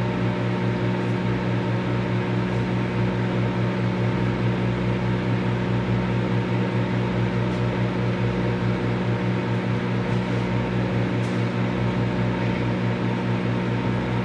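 Microwave oven running: a steady electrical hum under the whir of its fan.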